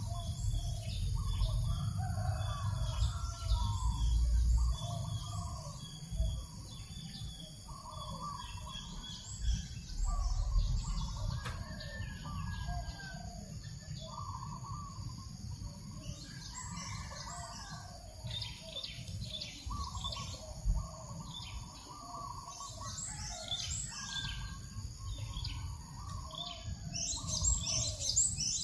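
Several birds chirping and calling over one another, with quick high chirps on top of a repeated lower call, and a low rumble of breeze on the microphone that is strongest in the first few seconds.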